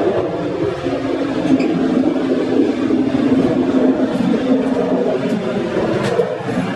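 Moving passenger train: steady rumble of wheels on the rails and running gear, with a few faint clicks.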